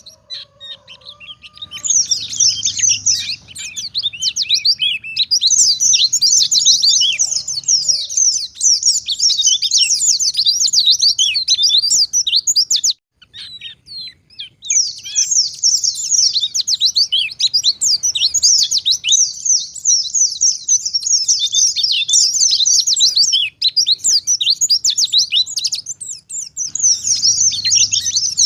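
White-eye (pleci) singing a fast, continuous twittering song of high chirps and trills. The song starts about two seconds in and breaks off briefly about halfway through before resuming.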